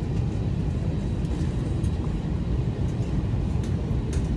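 Airbus A320 engines running, heard from inside the passenger cabin as a steady low rumble. Two or three short clicks come near the end.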